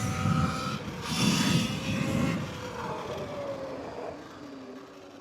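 Wind rushing over the microphone with a Yamaha WR450F dirt bike's single-cylinder four-stroke engine underneath, its pitch slowly falling as the bike slows, the whole sound fading toward the end.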